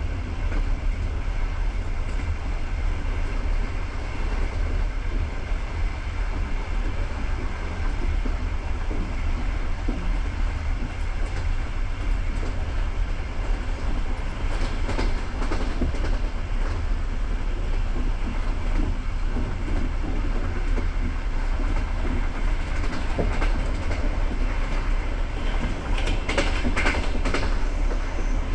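Passenger railway carriage running along the track: a steady low rumble of wheels on rail, with clusters of sharp clicks as the wheels pass over rail joints about halfway through and again near the end.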